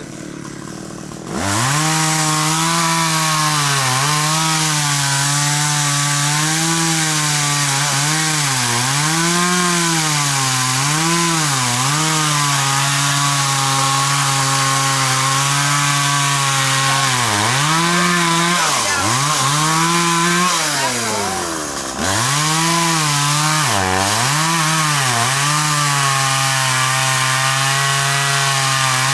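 A two-stroke chainsaw revs up about a second in and runs at high speed, cutting into a large tree. The engine note sags and picks back up several times under load, and about two-thirds of the way through it slows right down, then snaps back to full revs.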